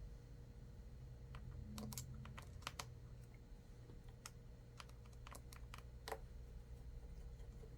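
Faint, irregular light clicks of a small screwdriver and metal tools working out the two small screws inside an iPad 2, about a dozen ticks over a low hum.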